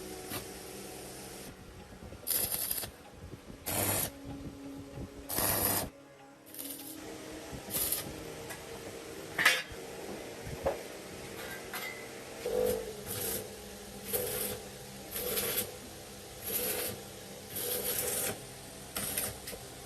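Workshop work noises: a series of short bursts of mechanical clatter and scraping, coming roughly once a second in the second half.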